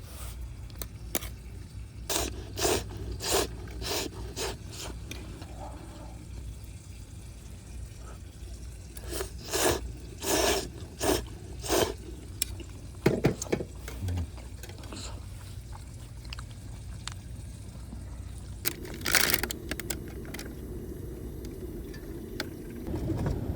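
Someone eating a freshly cooked camp meal: clusters of short scraping and slurping noises from utensils and food, over a steady low rumble.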